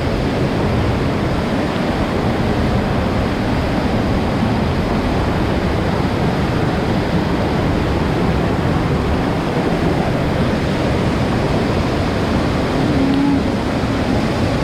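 Loud, steady rush of moving water, an even roar with no breaks or distinct events.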